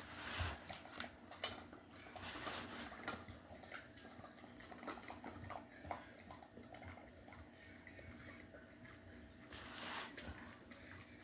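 A dog eating a snack: wet chewing and licking, with irregular soft clicks and smacks.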